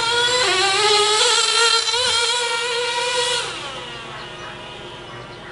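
The GO 0.98cc glow engine of a 1/16-scale nitro RC buggy revving hard with a high-pitched whine. The pitch climbs in the first second and holds high, then drops and fades after about three and a half seconds as the throttle comes off or the buggy moves away.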